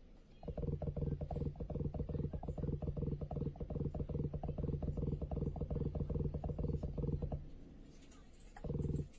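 Donner Essential B1 analog bass synthesizer playing a sequenced bassline: a fast, even run of short low notes, about six a second, that stops after about seven seconds, followed by one longer note near the end.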